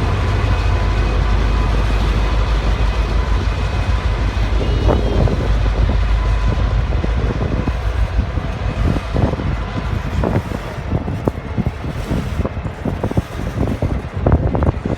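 Freight train rolling past: a steady low rumble, with short knocks and clatter coming more often in the second half.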